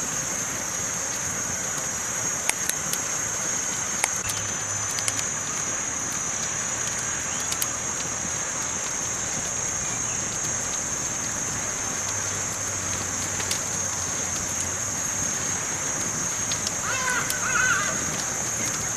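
Campfire crackling, with scattered sharp pops over a steady high hiss. A bird calls a couple of times near the end.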